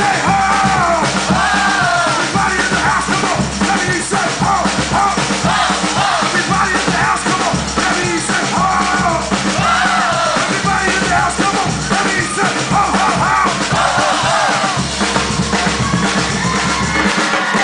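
Live batucada band playing samba drums loudly and without a break, with a voice carrying over the percussion.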